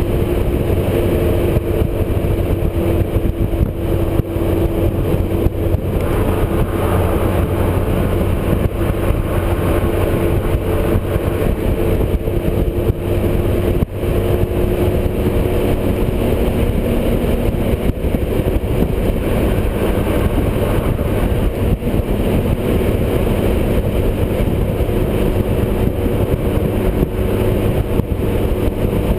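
Motorcycle engine running steadily at highway cruising speed, with wind rushing over the microphone.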